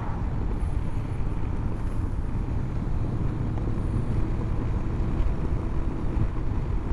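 Honda CB500X parallel-twin motorcycle being ridden on the road: steady engine running mixed with wind and road noise.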